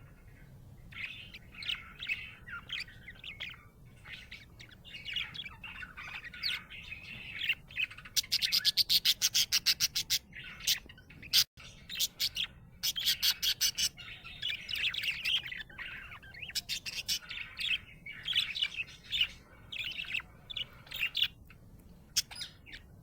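Budgerigar chirping and warbling in a continual stream of short notes, with a fast run of sharp, loud repeated chirps, about ten a second, near the middle.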